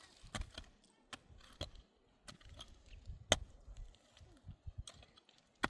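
About half a dozen sharp knocks and clicks at irregular intervals, the loudest about three seconds in and another near the end, like chopping or striking.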